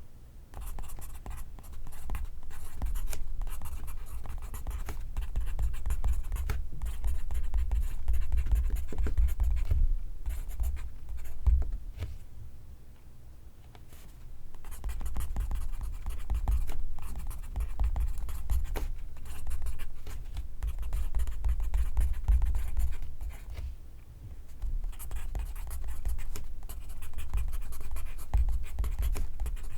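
Pencil writing on paper: runs of fine, scratchy strokes close to the microphone, with a pause of a couple of seconds about halfway.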